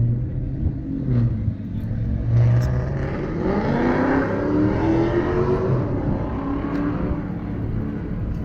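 Car engine accelerating. A low, steady engine note rises in pitch about two seconds in, holds high for a few seconds, then fades.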